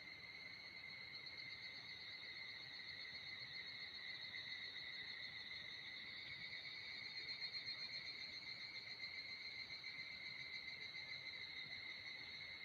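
Insects calling in a steady, continuous high-pitched drone that pulses slightly.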